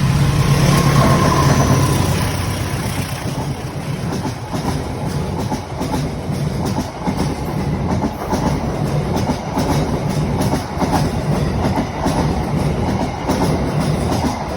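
A train passing close by: a diesel locomotive's engine hum over the first couple of seconds, then a long rapid clatter of wagon wheels over the rails.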